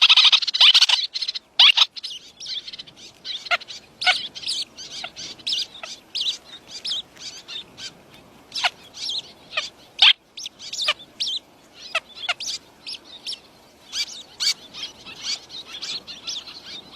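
Small birds chirping: many short, high chirps, with a loud, dense flurry of calls in the first second and scattered chirps after that.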